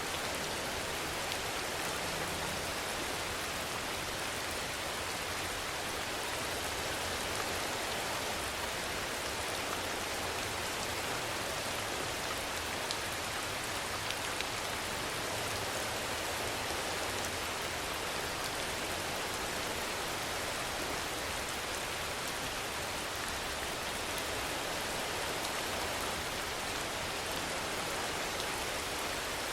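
Steady rainfall: an even hiss of rain with scattered faint drop ticks, holding the same level throughout.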